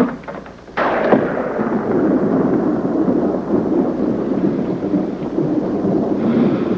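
A thunderclap: a sudden crack about a second in, then several seconds of rumbling that dies away near the end.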